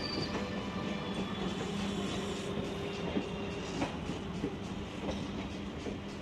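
Coaches of the Maharajas' Express rolling past a platform as the train pulls in, wheels clicking irregularly over rail joints above a steady low hum.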